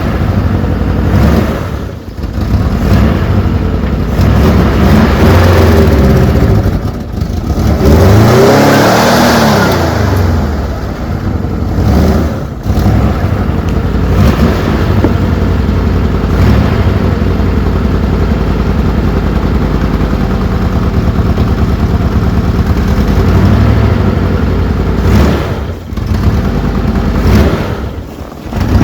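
Citroën GS Club's air-cooled flat-four engine running and being revved several times while warming up after a cold start, its pitch rising and falling, with the biggest rev about a third of the way through.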